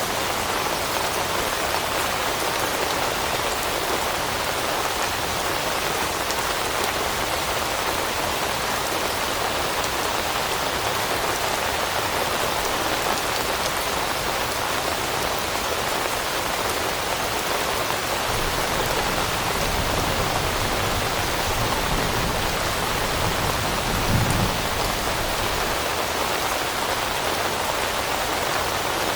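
Steady rain falling in an even hiss. A low rumble swells about three-quarters of the way through, peaking briefly before fading back under the rain.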